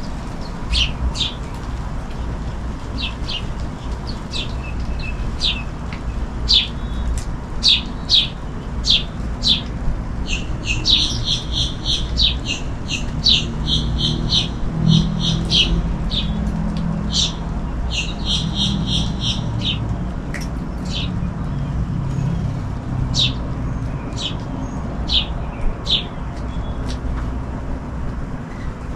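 Small songbirds chirping over and over in short, sharp high notes, breaking into quick trilled runs about eleven seconds in and again around eighteen seconds. A low hum swells in the middle.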